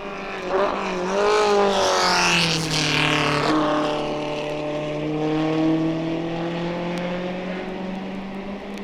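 A racing car's engine passes close and loud, its pitch dropping as it goes by, then the note climbs slowly and fades as the car accelerates away.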